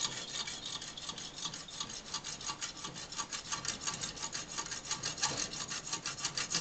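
Hacksaw cutting through a small turned metal part, with fast, even back-and-forth scraping strokes, about four to five a second.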